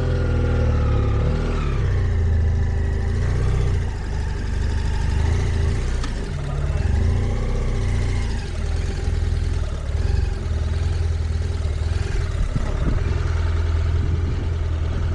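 Motorcycle engine running steadily at low speed, a continuous low hum without sharp revving.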